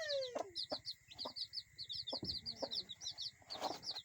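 Chickens calling and clucking, with a falling squawk right at the start, a quick, continuous run of short, high chirps, and a few scattered knocks.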